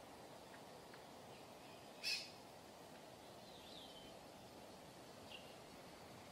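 Faint steady outdoor background hiss with a few short bird calls: a sharp call about two seconds in, a brief falling chirp a little later, and a faint note near the end.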